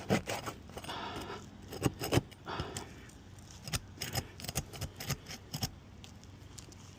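A hand pry tool working under roof shingles to break their seal: a string of irregular sharp clicks and taps, with short scrapes about a second and two and a half seconds in.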